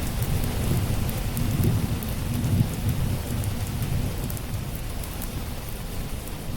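Steady rain with a continuous low, rolling rumble of thunder, and small sharp crackles of a wood fire.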